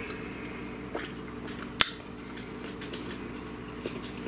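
Quiet wet mouth sounds of someone chewing a mouthful of beef stew, with one sharp click about two seconds in and a fainter one before it, over a steady low hum.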